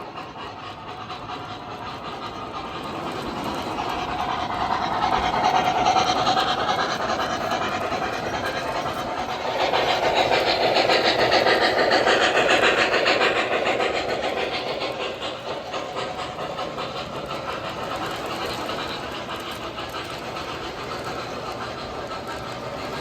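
O gauge model train running on three-rail track, its wheels rumbling and clicking over the rails. It swells as it nears, comes loudest suddenly at about ten seconds in, then fades as it moves away.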